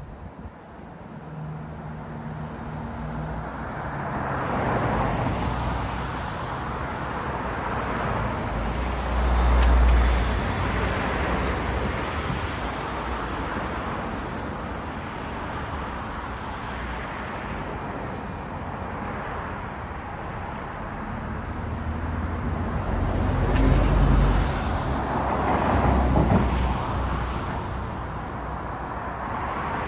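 Road traffic: cars passing one after another, their tyre and engine noise swelling and fading as each goes by. The loudest passes, with a low rumble, come about ten seconds in and twice near the end.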